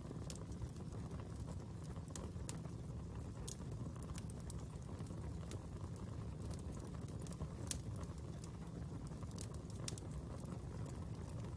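Fire crackling: irregular sharp pops and snaps over a steady low rumble, with one louder pop about two-thirds of the way in.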